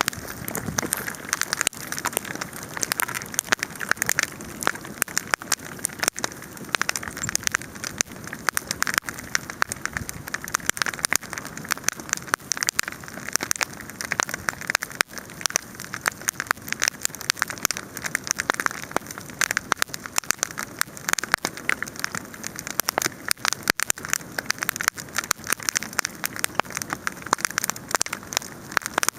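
Wood fire crackling steadily: a dense, irregular stream of sharp snaps over a soft hiss.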